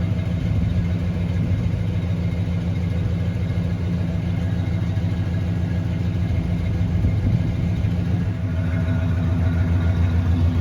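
1972 Chevrolet Monte Carlo's 350 small-block V8 with a two-barrel carburettor idling steadily on its slow idle after a cold start.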